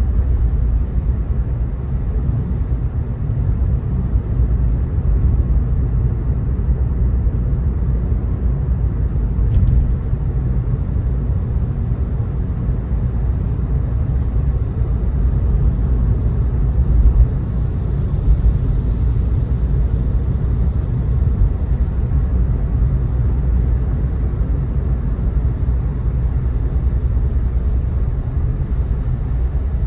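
Car driving on wet roads in the rain: a steady low rumble of tyre and road noise, with a short click about ten seconds in and a slight swell of hiss past the middle.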